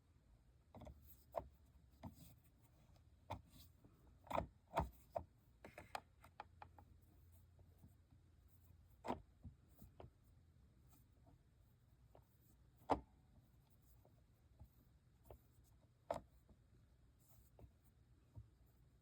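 Faint, scattered clicks and taps of small plastic toy parts being handled while rubber bands are fitted onto gear wheels, with a few sharper knocks, the loudest about two-thirds of the way through.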